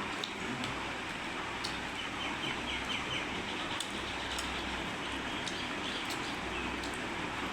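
Small birds chirping in short repeated calls over a steady background noise, with scattered faint clicks.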